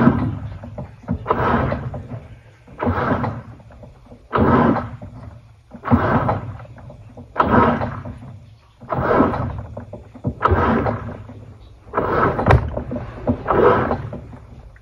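Panasonic NA-FA80H8 top-loading washing machine with its drum turning back and forth, giving a rhythmic surge of noise about every second and a half.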